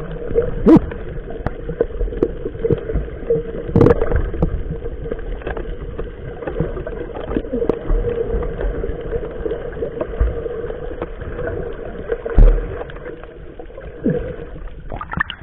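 Fishing boat's engine running steadily on the water, a constant hum with rough low rumbling, with scattered short knocks and clicks.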